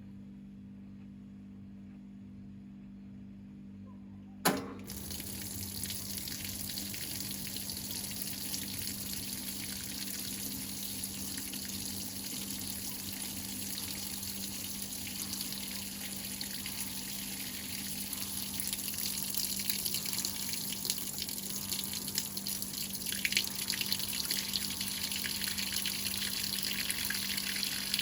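Whirlpool top-load washing machine: a low hum, then a sharp click about four and a half seconds in as water starts rushing into the tub. The water fill runs on steadily, growing a little louder over the last several seconds.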